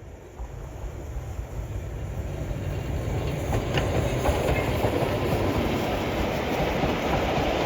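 LMS Black Five steam locomotive and its train running down the gradient. It grows louder as it approaches over the first few seconds, then settles into a steady noise of wheels on the rails, with a few sharp clicks about halfway through.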